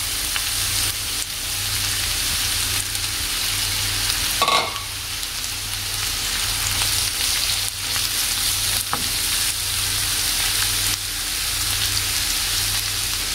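Sliced onions sizzling steadily in hot oil in a nonstick pan as they start to sauté, stirred with a wooden spatula that clicks against the pan now and then.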